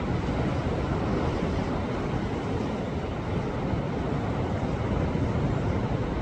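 Sea waves surging against a rocky shore: a steady, deep wash of surf with no single crash standing out.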